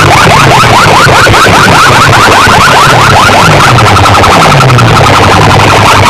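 Very loud electronic siren-like sound effect blasted through a sound system's loudspeakers: a fast warble of about six or seven sweeps a second, over a pulsing bass.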